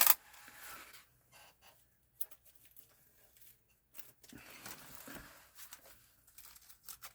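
Small console parts being handled on a workbench: a sharp click right at the start, then scattered light clicks and rustling of plastic and metal pieces.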